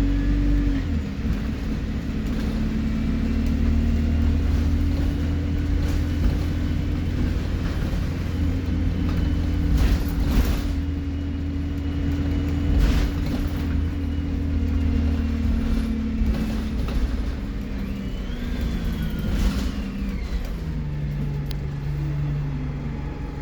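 Alexander Dennis Enviro 200 bus engine running steadily, with a faint turbo whistle that rises and then falls late on. The engine note drops near the end as it eases off, and there are a couple of knocks near the middle.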